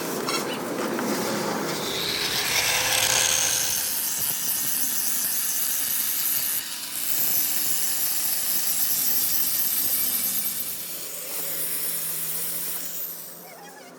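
A power tool working on a metal truck flywheel: a loud, hissing grind that runs on with small changes, then fades away about a second before the end.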